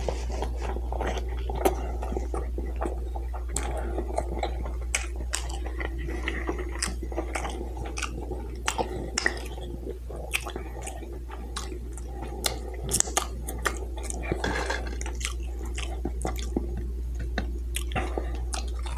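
Close-up chewing of a bratwurst in a bun, with wet mouth clicks and lip smacks scattered throughout, over a steady low hum.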